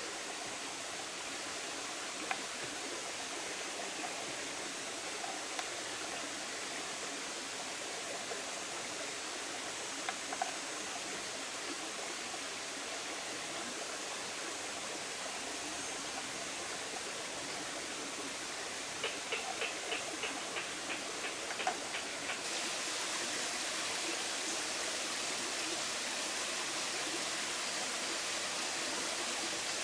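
Hot oil sizzling steadily as cut potatoes fry. A quick run of small clicks comes a little past the middle, then the sizzle turns louder and brighter.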